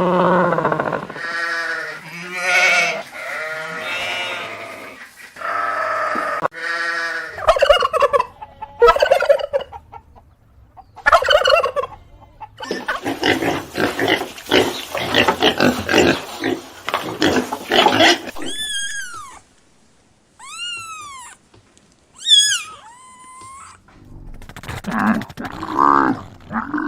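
Several different farm animals calling one after another, with short pauses between calls. The middle is a dense, fast, rattling run of calls, and later come a few high chirps that rise and fall.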